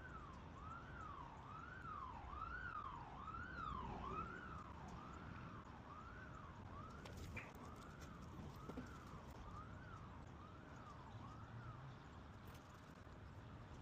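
Faint emergency-vehicle siren, a rising-and-falling yelp repeating a little faster than once a second, dying away near the end, over a low steady city rumble.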